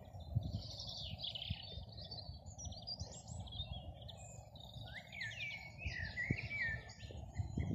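Songbirds singing: a continuous run of varied high chirps and whistles, some sliding down in pitch, over a low outdoor rumble.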